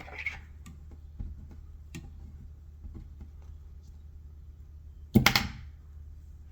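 Small handling clicks and rustles of fly-tying work at the vise, as rubber legs are handled and tied on, with a louder short rustling scrape about five seconds in. A steady low hum sits underneath.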